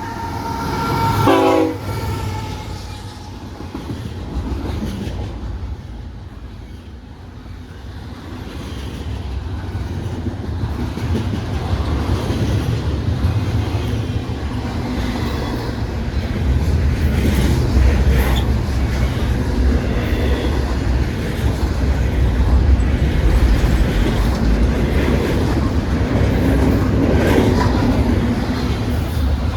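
CPKC train passing: the locomotive's horn ends with a short blast about a second in. The cars then roll by with a steady low rumble and the clickety-clack of wheels over rail joints, which grows louder after several seconds.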